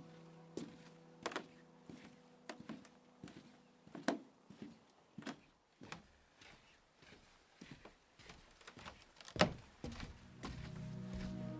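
A scatter of irregular knocks and clunks, a dozen or so, with one louder thump about nine seconds in. Music fades at the start, and a new piece of music begins shortly before the end.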